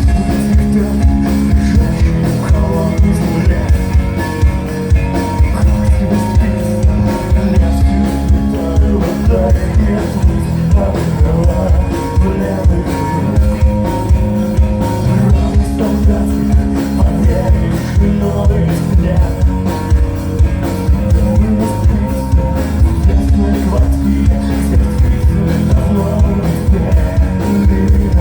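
Rock band playing live: electric guitar, bass and drum kit keeping a steady beat.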